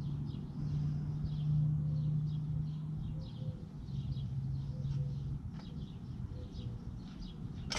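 Small birds chirping in short, repeated calls over a low outdoor rumble. A steady low hum runs through the first few seconds, and a sharp click comes at the very end.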